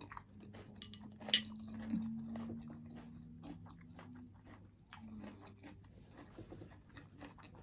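Close-up chewing and crunching of food, many small crackling clicks with one sharper crunch about a second and a half in.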